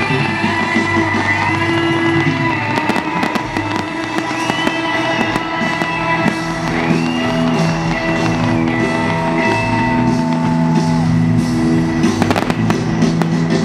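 Fireworks popping and banging over loud rock music, with a quick run of sharp bangs near the end.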